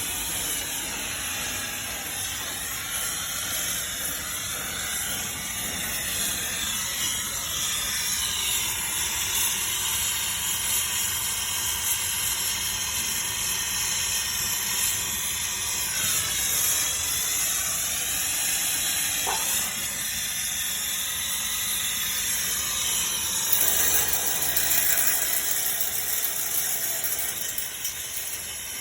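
Brazing torch flame hissing steadily on copper refrigerant pipe, briefly a little louder near the end.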